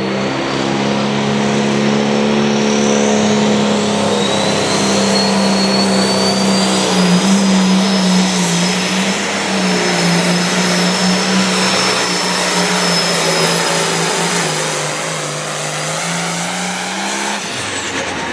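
Limited Pro Stock pulling tractor's turbocharged diesel engine at full throttle under load, its engine note held steady with a high turbo whistle rising early and then holding. The engine note falls away near the end as the run ends.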